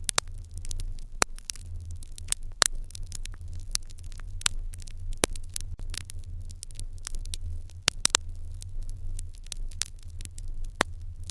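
Wood fire crackling in an irori hearth: irregular sharp pops and snaps, several a second, with louder pops about two and a half seconds in, near five seconds, around eight seconds and near the end, over a steady low rumble.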